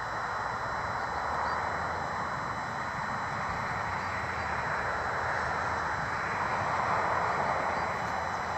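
Steady hum of distant road traffic, swelling and easing slowly as vehicles pass.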